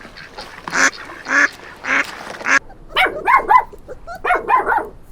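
Animal calls: a regular series of short, harsh calls about twice a second, then, after an abrupt switch a little over halfway through, a different animal giving quick yelping calls in clusters.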